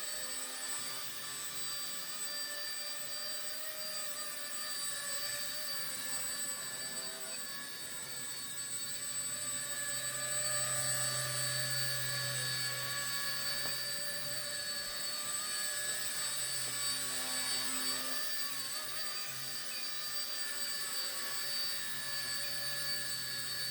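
Micro RC helicopter's brushless motors running with a steady high-pitched whine over the hiss of the spinning rotors.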